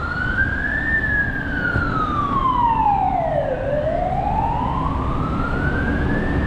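Emergency vehicle siren wailing in a slow rise and fall: it peaks about a second in, falls for over two seconds, then climbs again for nearly three seconds near the end. A steady low rumble runs underneath.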